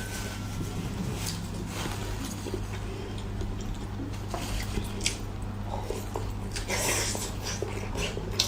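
Close-miked chewing and biting of meat: wet, squishy mouth sounds with small scattered clicks, over a steady low hum.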